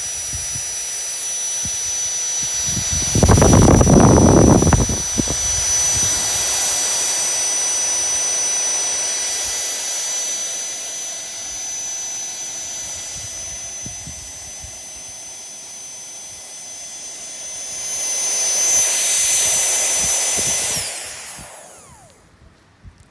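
FLEXTAILGEAR TINY PUMP X mini electric air pump running with a steady high whine as it draws air out of an inflatable sleeping mat, then switched off near the end, its whine falling in pitch as the motor winds down. A loud low rumble lasts a second or two about three seconds in.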